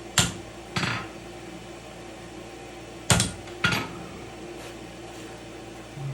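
Four hammer blows on metal in two quick pairs, about three seconds apart, over a steady hum.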